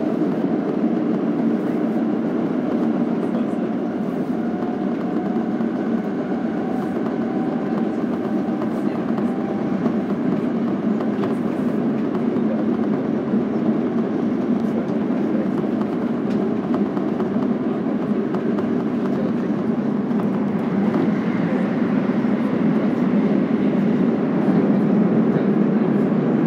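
Steady running noise of an electric commuter train heard from inside the car: wheels on rails and traction-motor hum. A faint steady whine fades out about ten seconds in.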